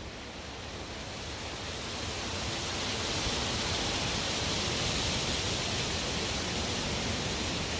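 Strong wind blowing as a steady rushing hiss, swelling over the first three seconds or so and then holding steady.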